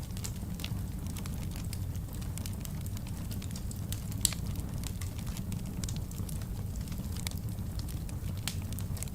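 Wood fire crackling in a fireplace: scattered small snaps over a steady low rumble, with one louder pop a little after four seconds in.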